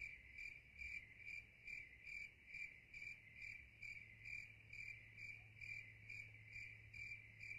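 Cricket chirping: a faint, high chirp repeating evenly, a little over twice a second.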